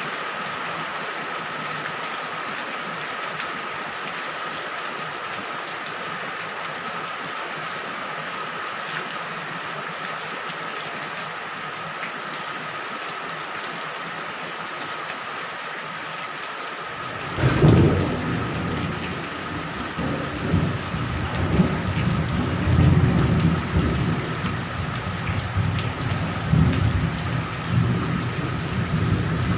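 Steady rain hiss. About two-thirds of the way in, a sudden loud thunderclap breaks in, and thunder keeps rumbling over the rain after it.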